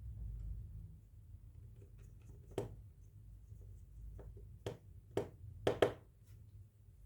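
A few light, sharp clicks and taps of a small screwdriver and tiny screws being handled against a smartphone's plastic frame during reassembly, over a low steady hum.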